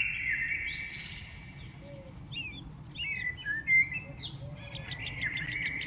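Several small birds chirping and calling in quick, overlapping short notes, with a steady high-pitched buzz running underneath.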